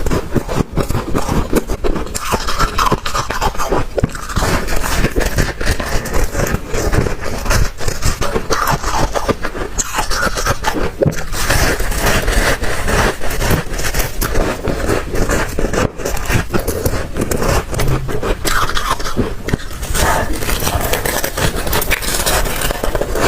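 Chunks of freezer frost being bitten and chewed: dense, continuous crackling crunches with a scraping, squeaky quality.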